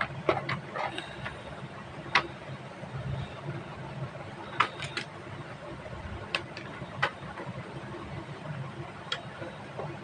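Pencil marking paper in short strokes: irregular sharp ticks and scratches, a few close together around a second in and near the middle, over a steady low hum.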